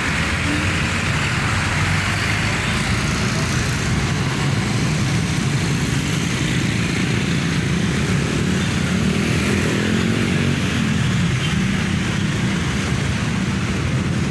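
Dense, slow road traffic: vehicle engines running steadily with a low hum, and one engine's pitch rising and falling about nine to eleven seconds in.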